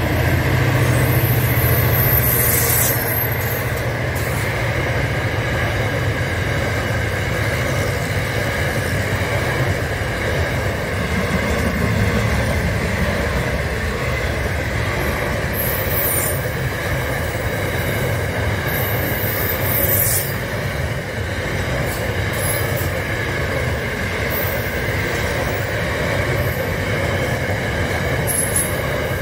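Freight train wagons rolling past: a steady low rumble of wheels on rail, with short, high-pitched wheel squeals at intervals, the first a couple of seconds in and several more in the second half.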